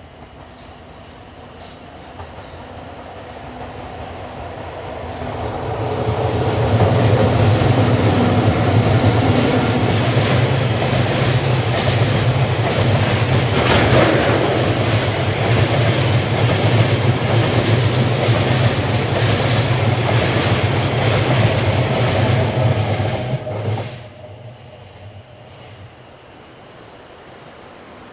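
Electric freight train passing on the track. It grows louder over several seconds, runs steadily with a low hum and wheel-and-rail noise, then drops away suddenly near the end as the train clears.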